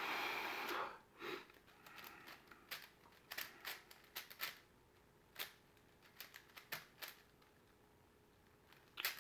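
A 5x5 Rubik's cube being turned by hand: irregular plastic clicks as its layers are turned. A short breathy rush opens it, and the clicks pause for about two seconds before picking up again at the end.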